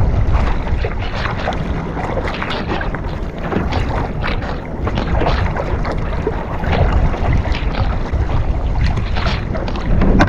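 Wind buffeting the microphone and water splashing and slapping against a kayak, over a steady low rumble, with many short splashy bursts.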